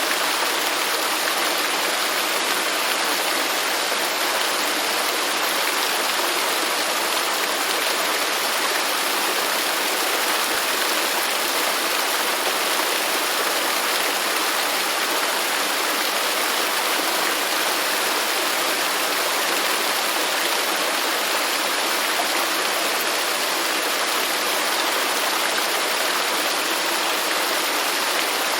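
Waterfall: a steady rush of falling water, even and unchanging, with most of its sound in the middle and upper range and little bass.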